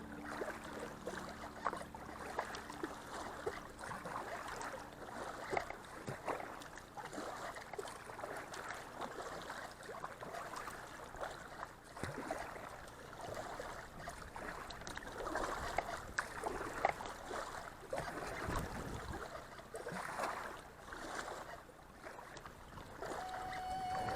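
River water splashing and gurgling against a kayak, with small uneven splashes throughout.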